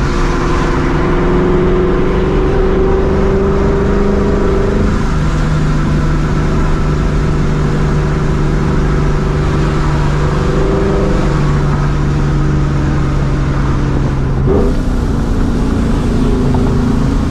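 Supercharged 4.6-litre V8 of a New Edge Mustang GT running through a Borla catback exhaust while cruising, its note shifting in steps. There is a brief break and change in the engine note near the end.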